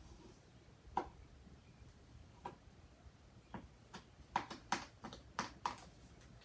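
A stirring stick clicking and tapping against the side of a bowl as blue dye is mixed into white glue: a few scattered taps, then a quicker run of taps in the second half.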